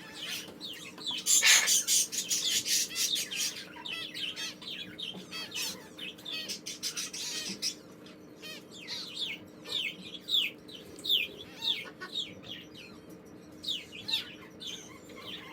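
African grey parrots chirping: a dense burst of high chirps in the first few seconds, then scattered short chirps that fall in pitch, over a steady low hum.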